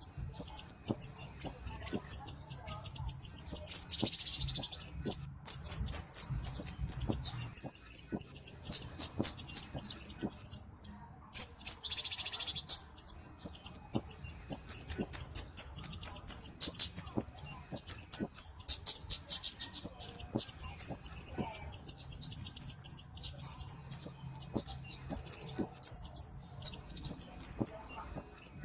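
Kemade cabe-cabean, a flowerpecker, giving long runs of rapid, high-pitched chipping notes broken by short pauses, with two brief hissy bursts mixed in.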